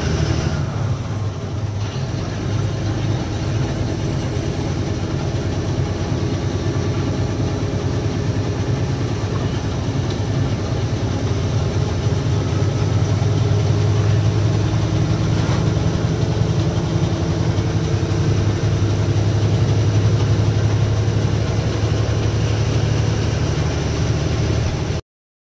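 Loaded truck's diesel engine running steadily while driving, its pitch rising slowly about halfway through.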